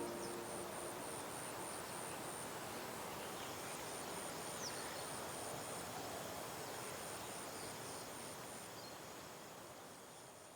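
Outdoor ambience: an even hiss with a high-pitched insect chirping in a steady pulse, about three times a second. A single faint short rising chirp comes about halfway through, and the sound fades out near the end.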